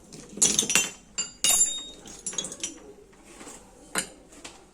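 Metal parts clinking against each other with a bright ring, as when they are handled during repair of a sugarcane press. There is a cluster of sharp clinks in the first two seconds, a few lighter ones after, then one more about four seconds in.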